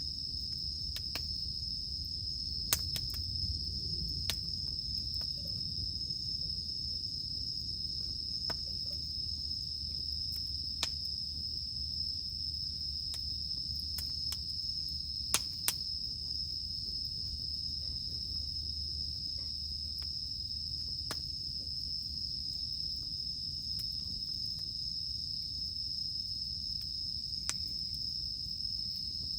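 A steady high-pitched drone of cicadas, with a campfire crackling beneath it and giving a sharp pop every few seconds.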